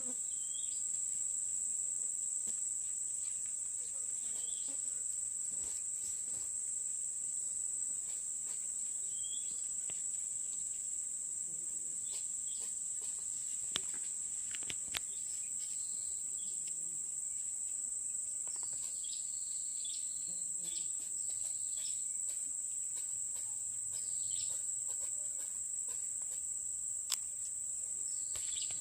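Insects, likely crickets, keep up a steady high-pitched drone. A few faint short calls and scattered clicks sound over it.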